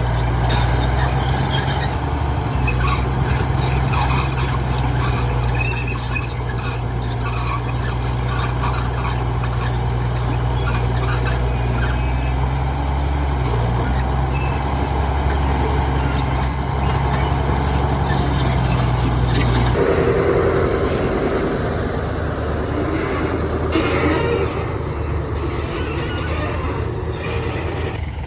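Heavy diesel machinery running steadily, with frequent short high squeals and clicks over the engine note. About two-thirds of the way through, the steady low engine note drops away and a different, higher mechanical sound carries on.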